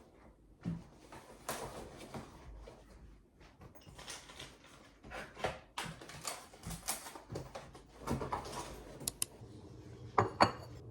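Small hard objects being handled and set down: scattered light clicks, taps and rustling, with two sharp clicks near the end.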